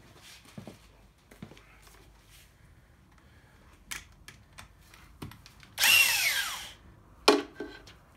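Small clicks and taps of tools, then a cordless power driver runs for about a second, its whine falling in pitch as the motor spins down, followed by a single sharp clank.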